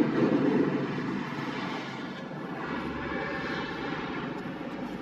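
Motorcycle engine running while riding, with wind rushing over the microphone; louder for the first second or so, then easing off.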